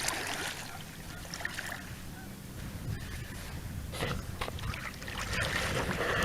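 Boat motor running steadily at low revs, a low even hum, with a few sharp clicks and knocks about four and five and a half seconds in.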